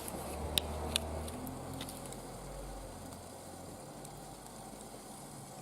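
Wood fire burning in a barbecue grill, sizzling softly with a few sharp crackles in the first two seconds. A low drone sits underneath through the first half.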